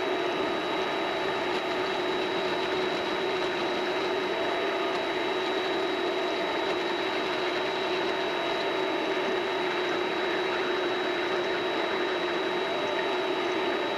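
Vevor MX400 mini lathe running steadily, its motor and drive giving a constant hum with a thin high whine, while brass game pieces are turned.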